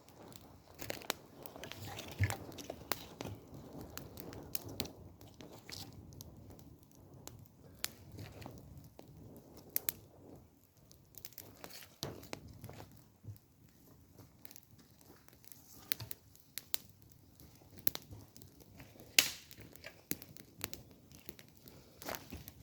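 Small wood fire crackling, with irregular sharp snaps scattered through, one loud snap about 19 seconds in, over a low rustle of twigs and material being handled.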